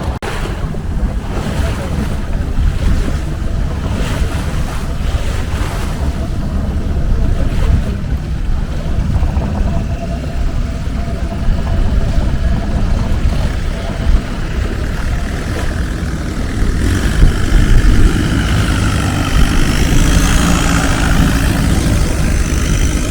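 Longtail boat under way: its engine running steadily, with wind buffeting the microphone and the rush of water.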